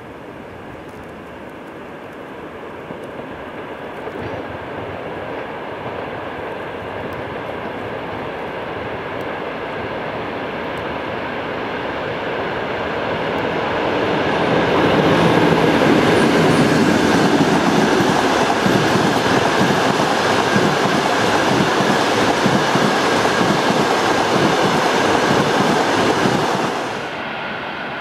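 EP20 electric locomotive hauling a passenger train, its wheels clattering over the rails. The sound grows steadily louder as the train approaches and stays loud as it passes close by. Near the end it drops suddenly to a quieter level.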